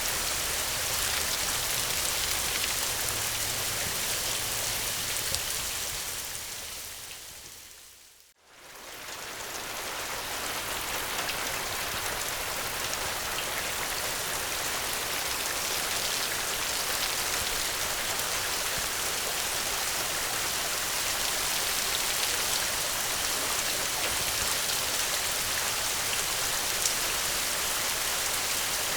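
Steady, heavy rain hiss. About eight seconds in it fades down almost to silence, then quickly swells back up and holds steady.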